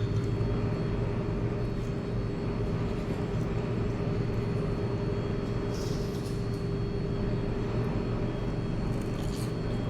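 Steady low rumble of street traffic with a constant hum, and a few faint clinks of cutlery.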